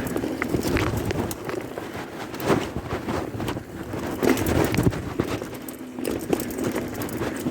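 Bicycle rolling over a rough forest trail: irregular knocks and rattles from the bike and its tyres on roots and stones, over a rough rush of wind noise.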